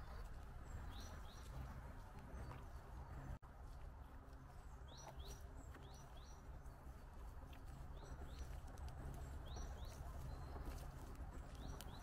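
Small songbird calling: short high chirps that slide downward, coming in pairs and small groups every few seconds, over a steady low rumble.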